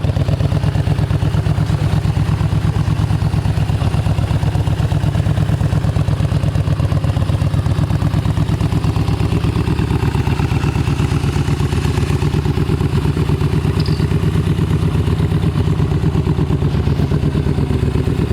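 Harley-Davidson motorcycle's V-twin engine idling steadily with a fast, even low pulse.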